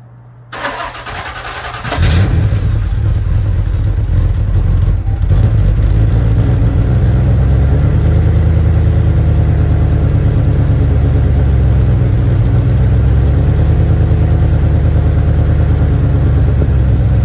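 Porsche 928 GTS 5.4-litre V8 cranking on the starter for about a second and a half, then catching and running steadily at a loud idle. This is its first start after a manual transmission swap, with the exhaust leaking.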